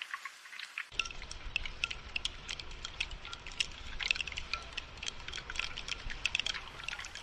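Rain falling in quick, irregular drops that tick and patter. A low, steady rushing of heavier rain joins about a second in.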